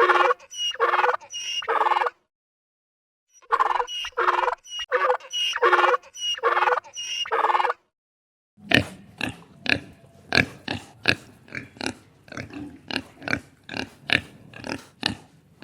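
Animal calls: two runs of short repeated calls, five or six in each. After a break about eight seconds in, a different recording follows with rapid short grunting calls, two or three a second.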